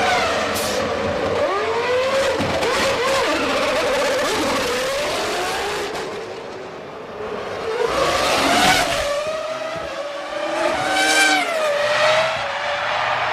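Formula One cars' V10 engines at racing speed, their pitch sweeping up and down through gear changes as cars go past. The loudest pass comes just past the middle and another follows near the end.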